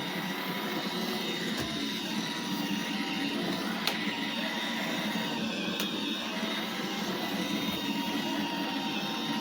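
iRobot Roomba 877 robot vacuum running, a steady whir with a thin tone over it and a few brief clicks.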